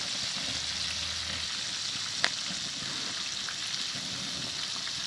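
Chicken pieces deep-frying in hot oil: a steady sizzle, with one sharp click about two seconds in.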